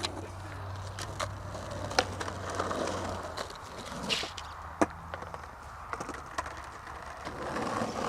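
Skateboard rolling on concrete, with a low rumble and scattered sharp clicks and knocks from the board about once a second.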